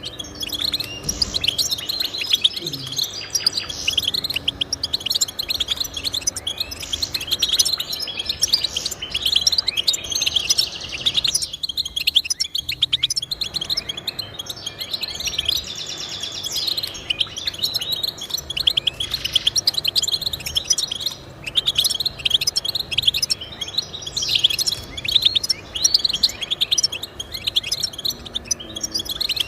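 Goldfinch singing a fast, continuous twittering song of quick high chirps, easing briefly about halfway through.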